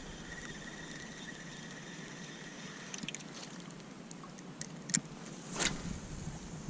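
Quiet river water running around a kayak, with a few light clicks and knocks from handling gear and a brief swish about five and a half seconds in.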